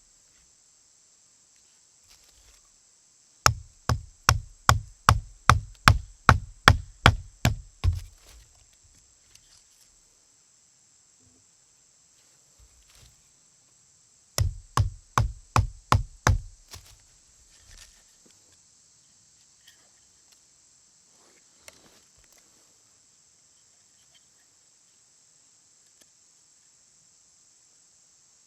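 Two runs of sharp, rhythmic knocks, about three a second: a dozen or so, a pause of several seconds, then about seven more.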